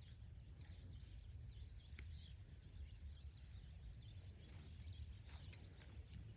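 Faint outdoor ambience: many small bird chirps over a steady low rumble.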